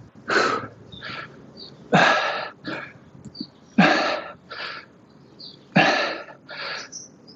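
A man breathing hard from exertion: a forceful exhale about every two seconds, each followed by a shorter, quieter inhale.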